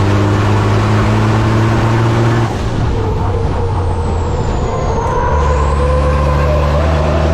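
Racing truck's diesel engine pulling hard, lifting off about two and a half seconds in, with a faint falling whine while off the throttle. It pulls hard again at a steady, lower pitch a few seconds later.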